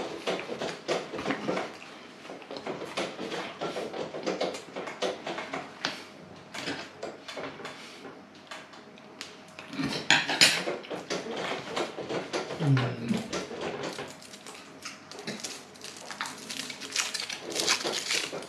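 Eating sounds: a person biting off and chewing mouthfuls of lahmacun, with many small wet mouth clicks and smacks and a louder crackly stretch about ten seconds in. A short low vocal sound comes about two-thirds of the way through.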